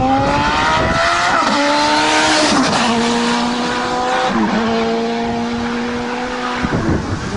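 Suzuki-engined Mk1 VW Golf van accelerating hard past along the road. The high engine note climbs through the revs and dips sharply three times as it changes up, then holds a steady pitch and stops shortly before the end.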